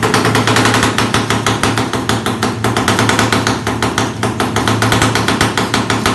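Voskhod 2's 175 cc single-cylinder two-stroke engine running loudly with a fast, even exhaust beat, about eight pulses a second.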